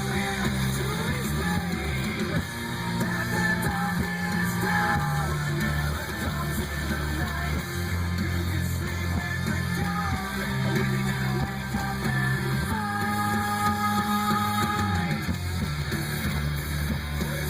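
Rock song with guitar and singing played loud through a truck's bass-heavy sound system. The deep bass notes are held and change every second or two.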